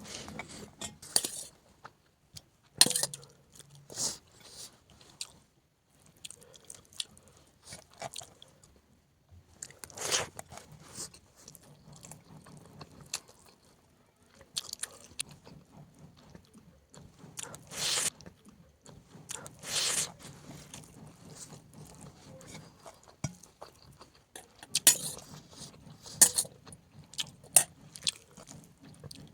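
A person eating chicken close to the microphone: irregular sharp bites and crunches every few seconds, with quieter chewing between.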